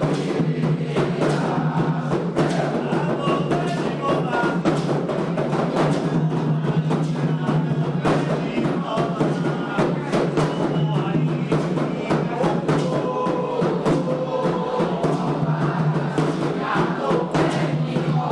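Candomblé ritual music: atabaque hand drums beating a steady, dense rhythm under group chanting of a song for Xangô.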